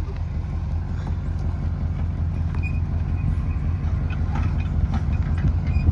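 GMC K2500 pickup truck engine running with a steady low rumble, with scattered light rattles and knocks from the truck.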